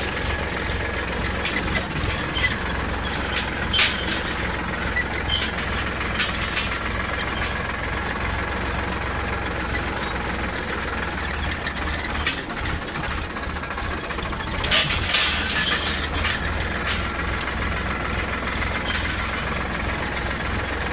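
Sonalika DI 745 tractor's diesel engine running steadily, with scattered rattling clanks, a cluster of them about 15 seconds in.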